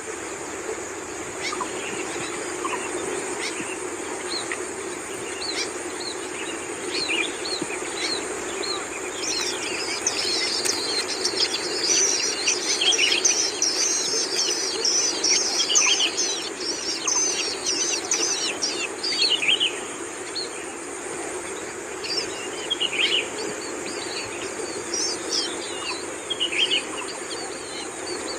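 Long-tailed shrikes at the nest giving many short, high chirps, which thicken into a dense, rapid chattering flurry through the middle, then go back to scattered calls. A steady high whine runs underneath.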